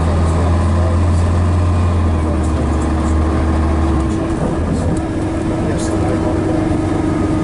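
Scania DS11 diesel engine of a Scania-MCW Metropolitan double-decker bus running, with a deep steady drone. About four seconds in the deep drone drops away and a higher, steady engine note carries on.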